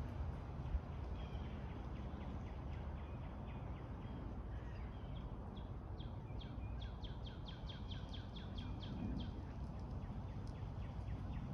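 Songbird chirping: scattered short high notes, then a fast run of quick down-slurred chirps, about five or six a second, from about six to nine seconds in. Under it, a steady low rumble of background noise.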